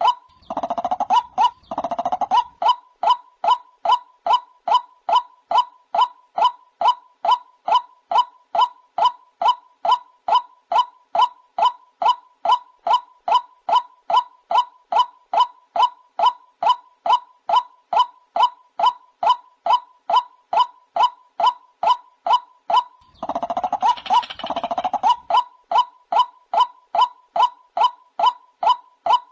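White-breasted waterhen calling: a long monotonous run of short 'ruk' notes at one steady pitch, about three a second. A harsher, rougher stretch of calling is laid over it at the start and again about 23 seconds in.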